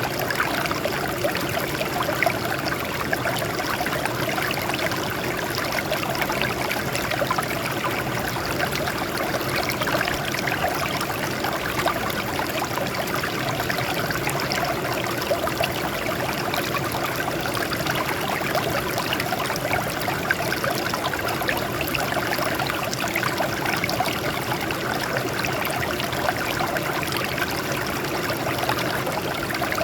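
Water flowing steadily over and off rocks, a continuous splashing and trickling.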